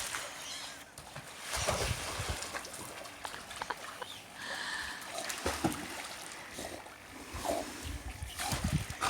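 Pool water splashing and sloshing in uneven surges as an Australian kelpie jumps in and paddles, with a brief high squeak about halfway.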